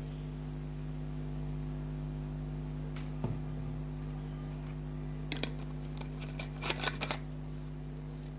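Steady electrical hum with a few short clicks and taps, in three small clusters about three, five and seven seconds in.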